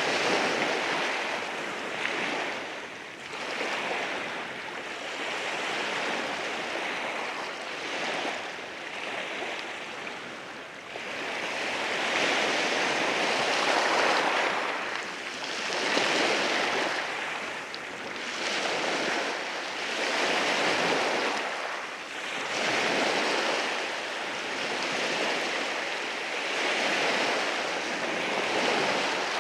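Sea waves washing in over rocks on a rocky beach, a continuous rush of surf that swells and ebbs every few seconds.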